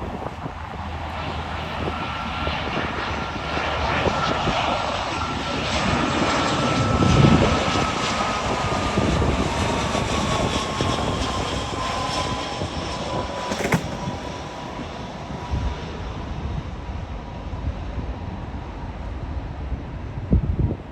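Jet airliner passing overhead: engine noise swells to a peak about seven seconds in and then eases off, with a whining tone that slowly falls in pitch as the aircraft goes by.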